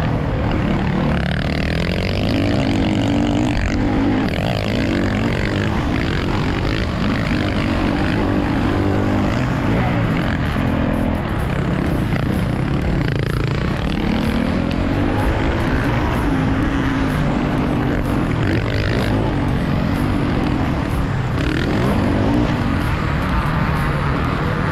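Motocross bike engine revving hard, its pitch climbing and dropping again and again as the rider opens and closes the throttle around the track.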